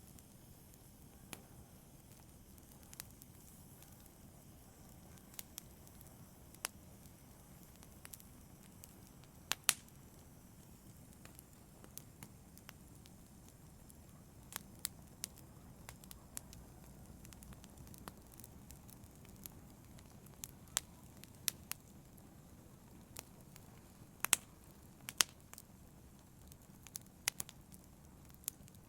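Wood fire burning in a fireplace, crackling: a soft steady low rustle with irregular sharp snaps and pops, a few of them louder.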